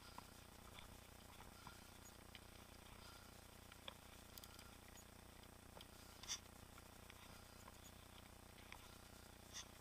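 Near silence, with faint scattered ticks and clicks; one is a little louder about six seconds in.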